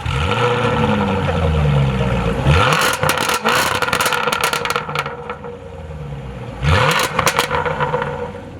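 Car engine accelerating hard, its pitch climbing twice, with a burst of sharp crackles after each climb.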